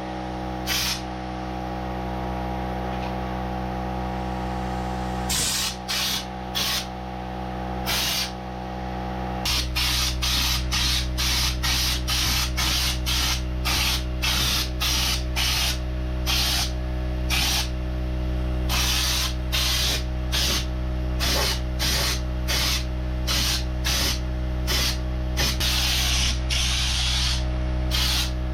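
Air spray gun spraying primer in many short, repeated bursts of hiss, a few held longer, over a steady machine hum.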